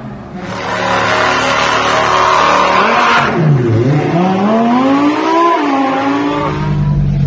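Lamborghini Huracán Performante's 5.2-litre V10 revving hard under acceleration. The revs drop sharply about three and a half seconds in, then climb again through a shift, and a steady low drone takes over near the end.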